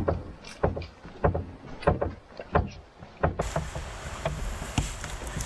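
Footsteps on a portage trail, a crunching step about every 0.6 seconds. About three and a half seconds in the sound changes abruptly to a steady rushing hiss.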